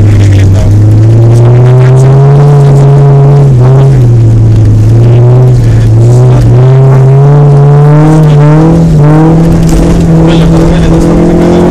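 Honda Civic 4WD engine running hard as the car is driven around an ice track. The revs rise and fall with the driving, then climb steadily over the last few seconds.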